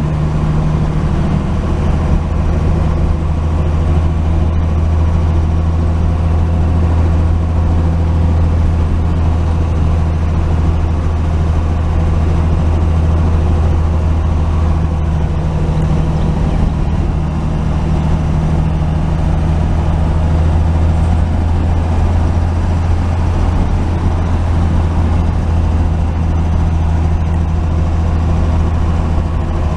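1949 Chevy truck's engine running at a steady cruise with a constant low drone, heard from inside the cab while driving.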